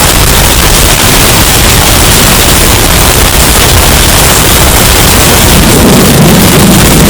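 Hurricane wind sound effect, bass-boosted and overdriven into heavy distortion: a continuous, very loud noise with a deeper rumble swelling near the end.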